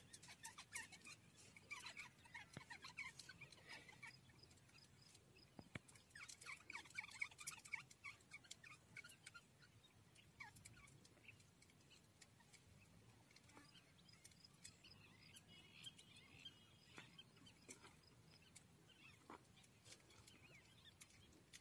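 Faint bird calls, quick chirps in two bunches, about a second in and again around six seconds in, over near silence with a few faint clicks.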